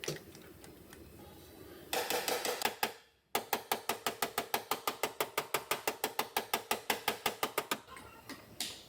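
Rapid, evenly spaced tapping on sheet metal, about nine strikes a second, with a faint ring under the strikes, as in panel beating out a dented car body. It starts abruptly after a brief silence and stops about a second before the end.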